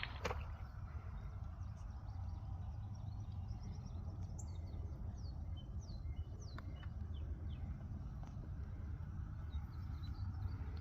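Faint birds chirping in short, scattered calls over a steady low rumble of outdoor background noise.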